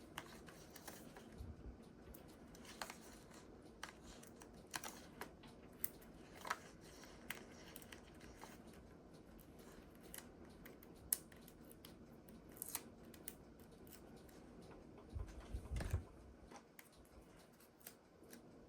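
Faint, scattered small clicks and paper rustles of card-making supplies being handled on a craft table, with a few low thumps near the end.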